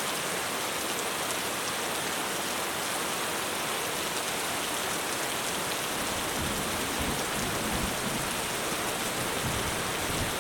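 Heavy rain drumming steadily on a roof. About six seconds in, a low rumble of thunder joins it.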